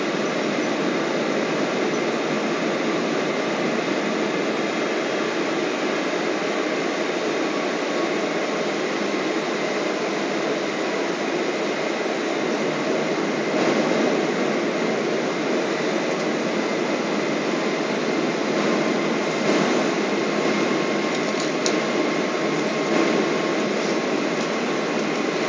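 Steady cabin noise inside a Boeing 777 airliner in flight: a constant rush of engine and airflow noise with faint steady whine tones running through it, and a few light ticks near the end.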